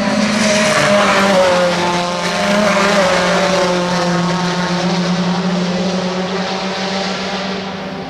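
Several racing car engines passing by in close succession, one engine's pitch sliding down as it goes past, fading away near the end.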